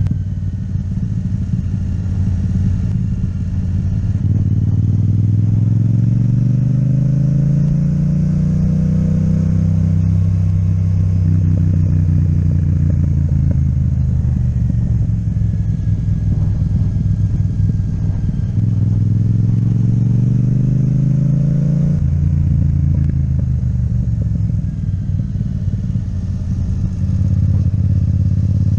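Yamaha MT-07 parallel-twin engine through an Akrapovic exhaust, heard while riding. The engine pitch climbs over several seconds and falls back about eleven seconds in. It climbs again and drops sharply about 22 seconds in, then runs steady.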